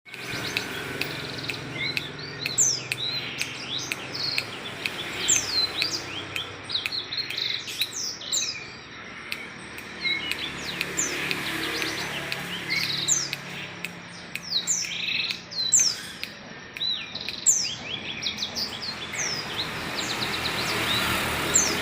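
A songbird, the kind Indonesian keepers call a blackseng, singing busily in a long run of quick high chirps and sweeping notes.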